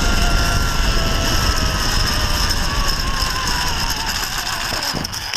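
Zip-line trolley pulleys running along the steel cable, with a thin whine that falls slowly in pitch as the rider slows, over heavy wind rumble on the microphone. The noise drops away suddenly at the very end.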